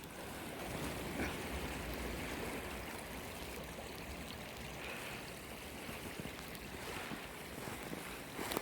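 Creek water flowing steadily past snow and ice.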